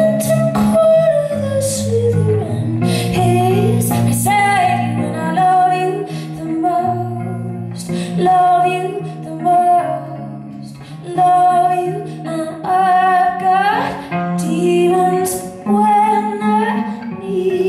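A woman singing a slow melody with vibrato, accompanied by guitar with held low notes.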